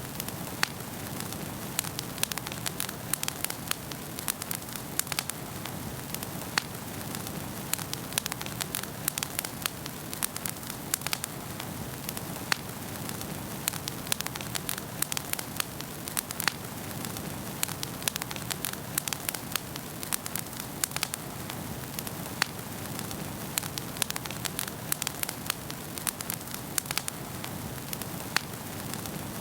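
Wood fire burning in a fireplace, crackling and popping: many irregular sharp snaps over a steady soft hiss.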